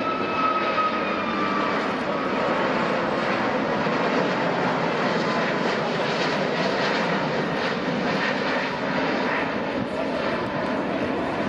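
Airbus Beluga XL's twin Rolls-Royce Trent 700 turbofans running as it flies past: a steady, loud rush of jet noise. A high engine whine sinks slightly in pitch over the first couple of seconds.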